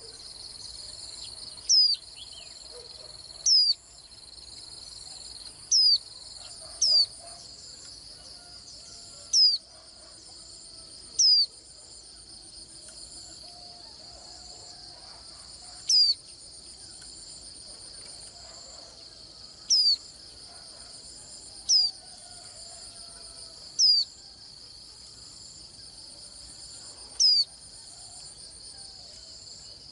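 Steady high trilling chorus of crickets, with a short, loud, high sweeping call note about every one to four seconds, eleven or so in all.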